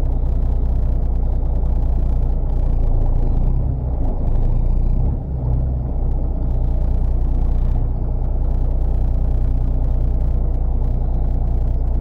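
Fishing boat's engine running with a steady low drone, dipping briefly twice around the middle.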